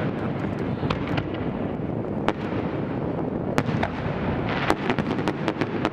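Fireworks display going off: a steady rumble of shell bursts with a dozen or so sharp cracks, some coming in quick clusters.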